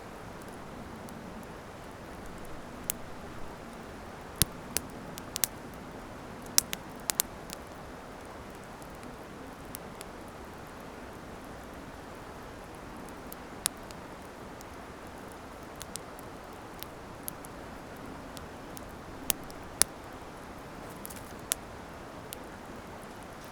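Wood campfire crackling: irregular sharp pops and snaps, a few much louder than the rest, over a steady hiss.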